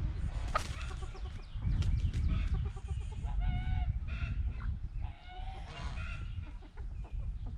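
A flock of backyard chickens clucking and calling, with several short calls each second or two. A steady low rumble runs underneath.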